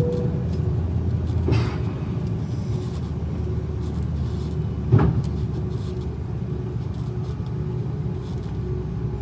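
Airbus A330 on the ground after landing, heard inside the cabin: a steady low rumble with a faint steady whine. Two short knocks, about a second and a half in and again about five seconds in.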